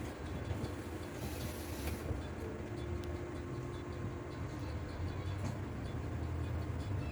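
Steady low rumble of a moving city bus, its engine and tyres heard from inside the cabin, with a steady drone under it and a brief hiss about a second in.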